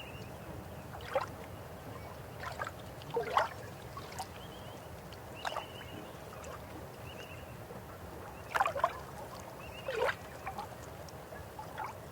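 River water flowing with a low steady rush, broken by irregular gurgling plops and splashes, about eight of them. Faint short high chirps come and go over it.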